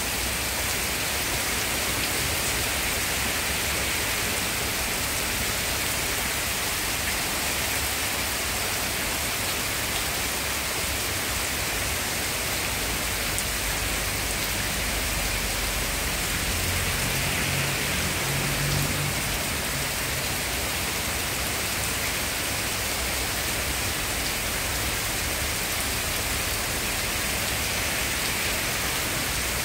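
Heavy rain pouring steadily onto trees and flooded ground, an even, unbroken hiss.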